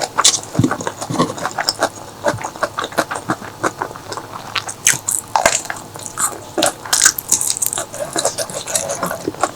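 Close-miked chewing and biting: wet, irregular smacks and clicks of a person eating.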